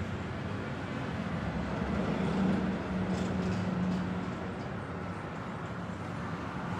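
Small electric motor and lower rotor of a toy coaxial RC helicopter spinning with a steady hum that swells a couple of seconds in, then eases. Only the lower rotor is turning, and the owner puts this down to a fault.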